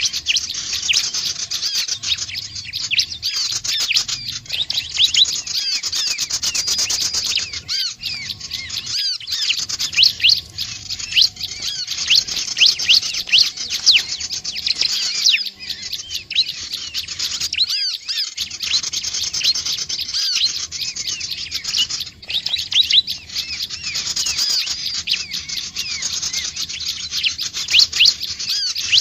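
Prinias (ciblek / prenjak) calling: a dense, unbroken stream of rapid, high, short chirps and twitters from several birds at once.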